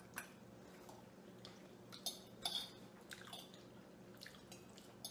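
Faint chewing of goulash and bread, with a few soft clicks of forks against plates scattered through it.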